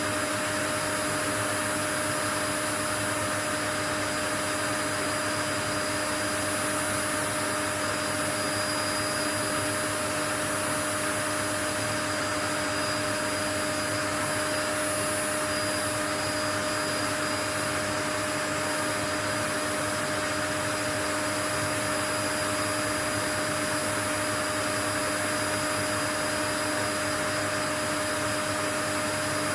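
Steady, unchanging white noise: an even hiss across the range with a few faint steady tones running through it, like a motor appliance running continuously.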